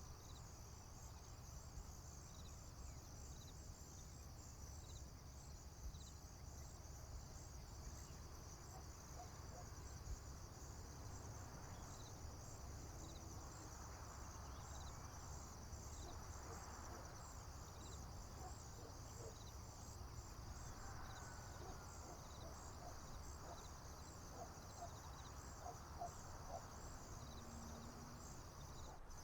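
Faint, steady chorus of crickets trilling in a continuous high pulsing band, over a low rumble. A few faint short chirps come and go in the second half.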